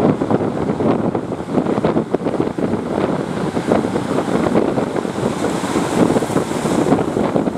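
Wind buffeting the microphone: a loud, steady rushing noise with constant irregular flutter.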